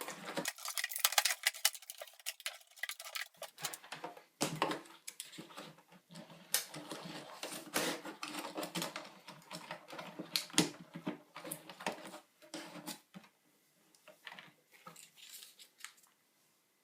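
Irregular clicks, taps and light clatter of small plastic and metal parts and a cable being handled inside an iMac G4, thinning out in the last few seconds.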